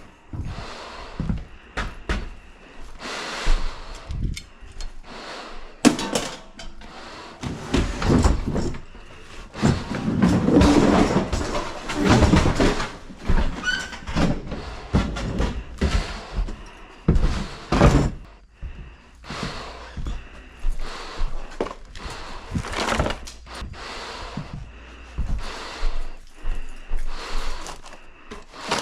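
Irregular knocks, thuds and clatter of things being handled and moved about in a small room, with a longer stretch of scraping and rustling in the middle.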